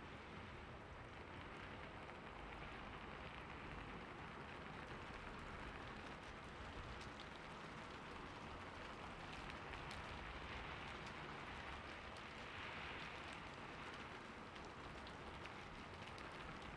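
Steady rainfall, a soft even hiss with scattered drop ticks.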